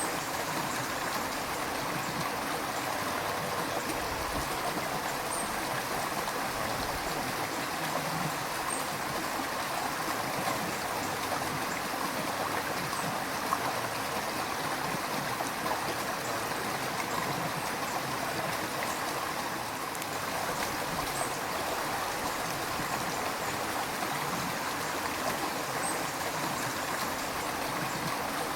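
River water flowing, a steady, even rush of noise.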